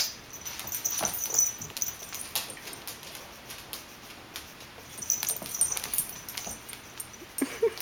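A dog and a kitten playing, with scattered scuffling and clicking from paws and bodies. A short rising call comes near the end.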